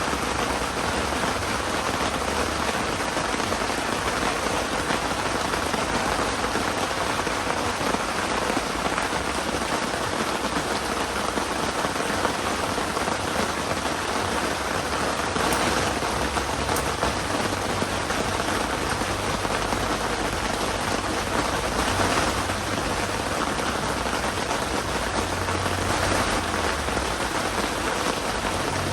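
Heavy typhoon rain pouring steadily, a dense even hiss of drops that swells briefly a few times.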